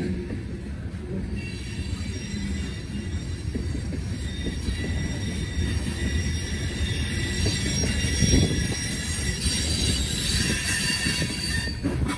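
Norfolk Southern freight train rolling past with a continuous rumble, its wheels squealing in several high, steady tones that grow stronger in the last few seconds.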